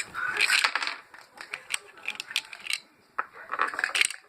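Irregular light clicks and clatter of small hard things being handled, thinning to a near-quiet gap about three seconds in before another cluster of clicks.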